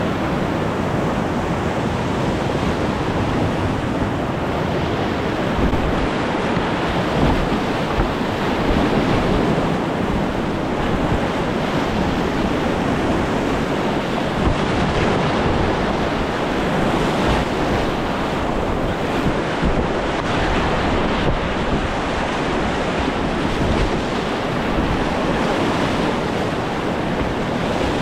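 Steady roar of rushing whitewater in a steep Colorado creek or river during spring runoff.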